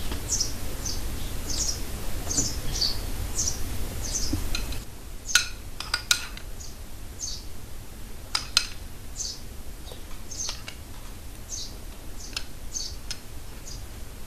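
Small birds chirping, short high chirps about one or two a second, over a low hum that drops away about five seconds in. A few sharp clinks of a spoon against a porcelain bowl come near the middle.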